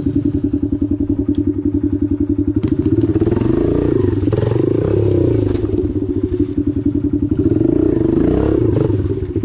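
Dirt bike engine running at low revs with a rapid, even pulse, revved up twice: about three seconds in and again near the end.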